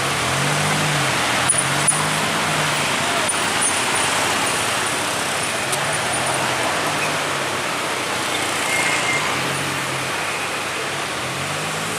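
Road traffic on a steep hill, with a heavy vehicle's engine note rising and falling repeatedly over a steady roar of road noise.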